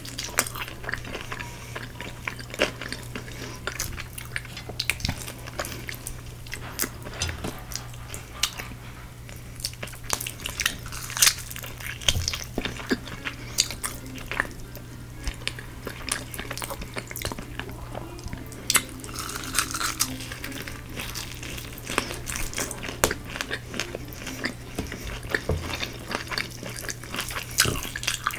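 Close-miked biting and chewing of crisp Korean fried chicken, with frequent crackly crunches through the chewing. A steady low hum sits underneath.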